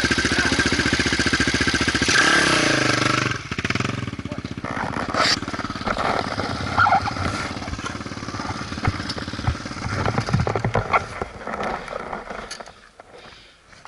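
Motorcycle engine running loudly, its pitch shifting briefly about two seconds in, then shutting off suddenly a little after three seconds. Scattered knocks and clicks follow.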